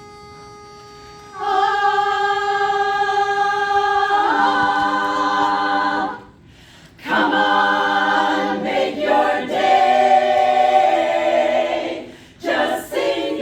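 An a cappella vocal group singing sustained chords without instruments, breaking off twice briefly. A quiet single steady note precedes it.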